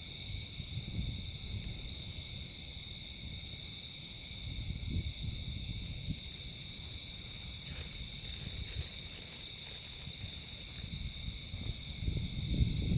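A steady chorus of insects chirring in several high pitches, over a low, gusting rumble like wind on the microphone. A campfire gives a few faint crackles.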